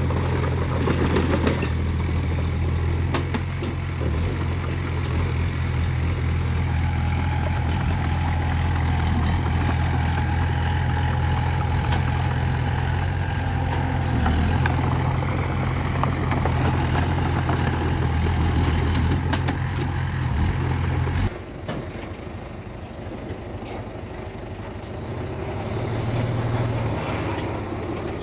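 Heavy diesel engine of earthmoving equipment running steadily, with a few sharp clanks. About three quarters of the way through the loud engine sound cuts off suddenly, leaving a quieter engine rumble that rises again near the end.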